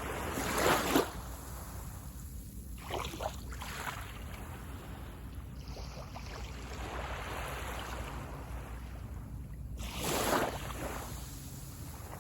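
Small sea waves breaking on the beach shore and washing back. A wave breaks just under a second in, smaller splashes follow around three seconds, then a wash, and another wave breaks about ten seconds in.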